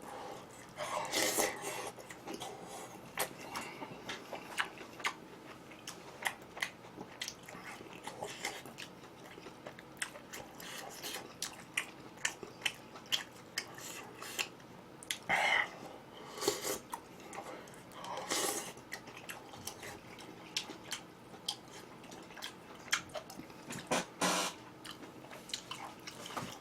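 A person chewing and biting into crunchy fried chicken close to the microphone: many small crunches and wet chewing clicks, with a few louder crunchy bites now and then.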